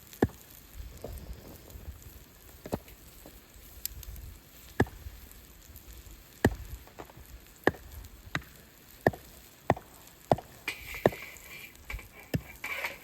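Firewood being split: a series of sharp, separate chops of a blade into wood, closer together toward the middle. A brief high tone sounds near the end.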